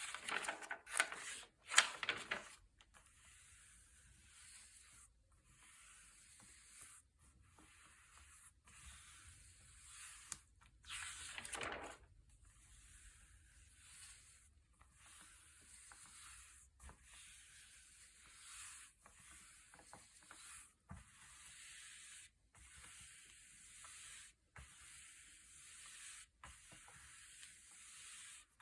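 Thick glossy pages being turned by hand: a louder paper swish and rustle at the start and another about eleven seconds in, with faint paper rubbing in between.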